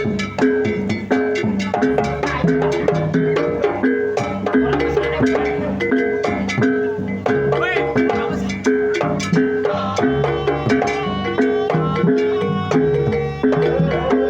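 Javanese gamelan music accompanying a jaranan horse dance: metal-keyed instruments repeat a steady pattern of ringing notes over regular drum strikes.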